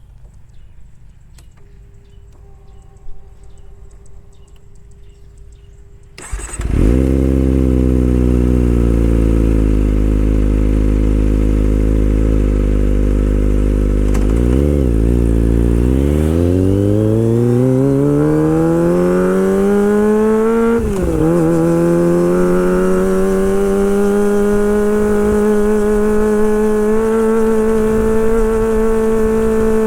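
Kawasaki Ninja ZX-25R's 250 cc inline-four engine starting about six seconds in after a faint steady hum, then idling. Near the middle it gives a short blip, the revs climb smoothly over several seconds, dip briefly, and hold at a higher steady speed while it warms up.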